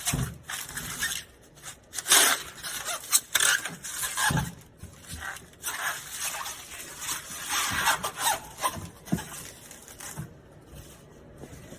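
Bubble wrap rustling and crinkling in irregular bursts as a battery is wrapped by hand, with some scraping of the plastic.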